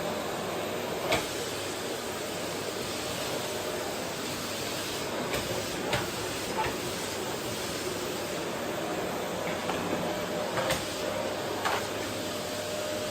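Vacuum cleaner running steadily with a faint hum, pushed over a wooden floor, with a handful of short sharp knocks scattered through.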